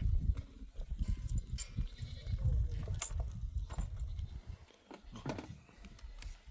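Goats bleating now and then over a low rumble.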